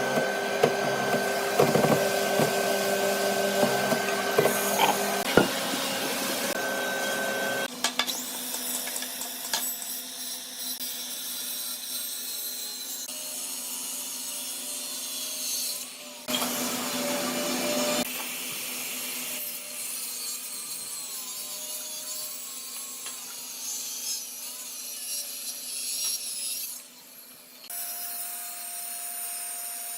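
Woodworking machinery running and working wood: a steady machine hum under the rough noise of cutting or abrading. The sound changes abruptly several times.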